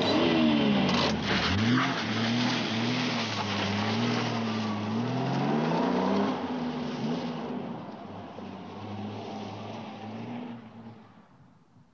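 Opel Commodore GS/E's straight-six engine revving up and down as the car pulls away and accelerates through the gears, then fading into the distance.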